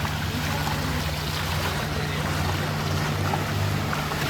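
A motor vehicle engine running with a steady low hum, over a constant wash of street and water noise.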